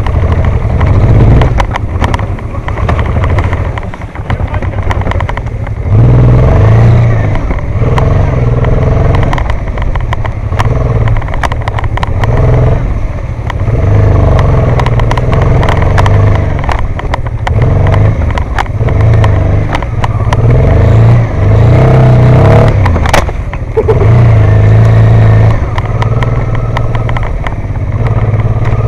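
Motorcycle engine running under load, its note rising and falling as the throttle opens and closes, with occasional sharp knocks and rattles over rough ground.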